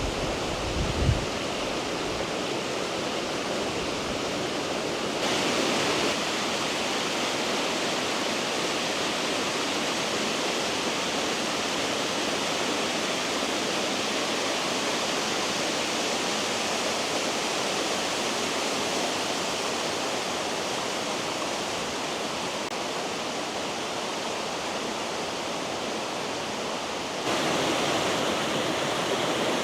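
Injebreck Waterfall, a small hillside waterfall, running with a steady rush of falling water. The sound shifts in level and tone slightly about five seconds in and again near the end.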